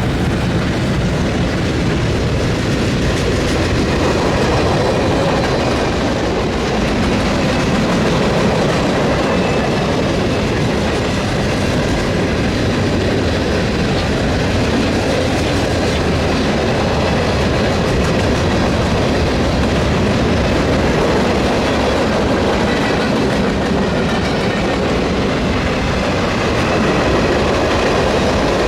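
A train's cars rolling past on steel rails, a steady loud rush of wheel and rail noise.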